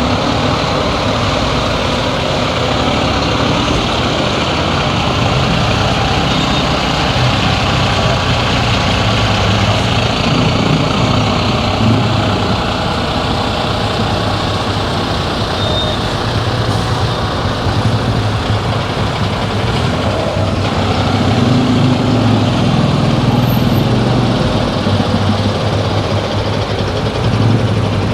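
Car driving through town streets: steady engine hum and road noise, the low hum swelling a little around ten seconds in and again for a few seconds past twenty seconds.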